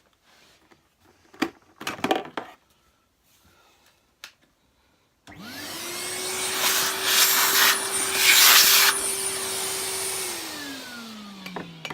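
A few small handling clicks, then a vacuum cleaner switched on about five seconds in, running at a steady pitch with a loud rush of sucked air as it clears out dirt. Near the end it is switched off and winds down with a falling whine.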